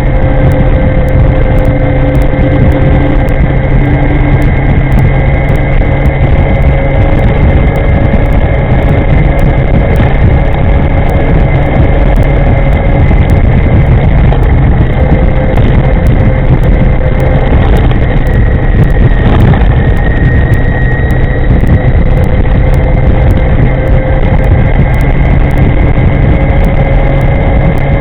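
Riding noise of an electric scooter under way: a loud, steady wind-and-road rumble with thin high whines from the motor drive that drift slightly in pitch.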